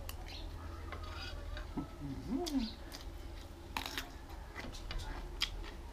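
A person chewing a mouthful of baked rice, with small wet clicks and crackles, then biting into a fresh cucumber slice with a crisp crunch about four seconds in. A brief rising-then-falling call about two seconds in is the loudest moment.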